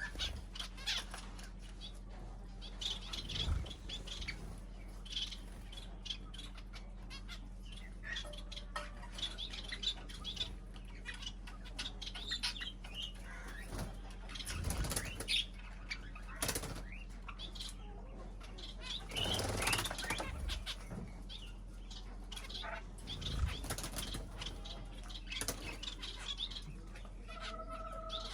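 Small cage birds fluttering their wings and rustling, with scattered short chirps and calls, over a steady low hum.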